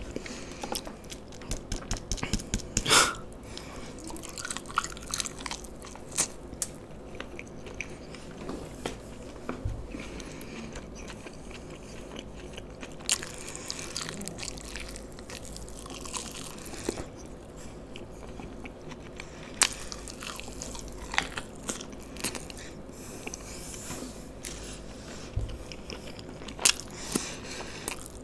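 Close-miked biting and chewing of fried chicken lollipops coated in schezwan sauce, with many short sharp clicks throughout and a few louder snaps about 3, 19 and 27 seconds in.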